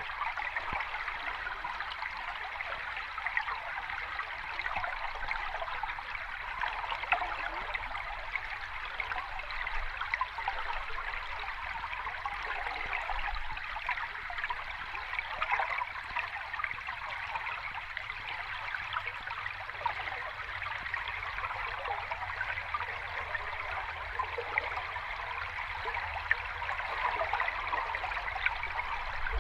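Cascading water running steadily, a continuous splashing flow that does not change.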